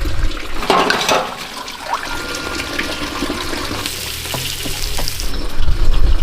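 Water running and splashing, with a brief louder splash about a second in and a stretch of hissier flow near the middle.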